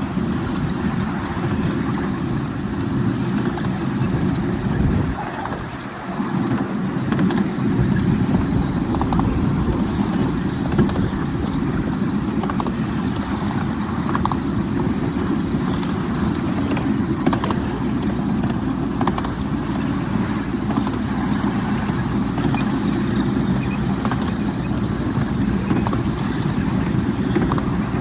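Miniature ride-on railway train running along its track: a steady low rumble with scattered light clicks, easing briefly about five seconds in.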